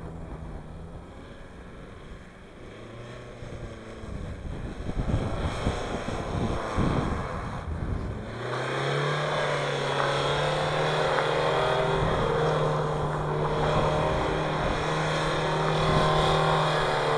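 Audi A4 quattro's engine revving while the car drifts on snow, faint at first; about eight seconds in the engine note steps up and is held steady at high revs to the end. Low buffeting on the microphone in the middle.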